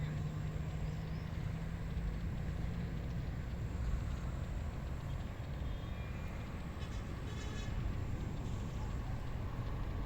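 Wind blowing, a steady rushing noise heaviest in a low rumble. A low steady hum runs under it for the first few seconds.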